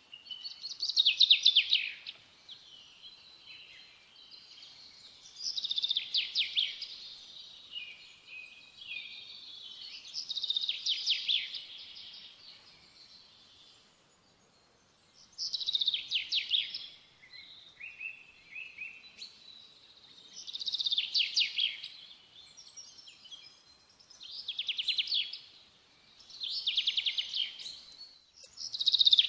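A songbird singing short, high phrases of rapid trills, repeated about every few seconds.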